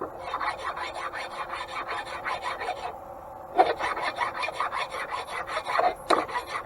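A 15/16 mill shaft being dressed by hand with rapid back-and-forth abrasive strokes, with a short pause about three seconds in. The roughed-up, worn spots on the shaft are being smoothed so that its bushing will fit.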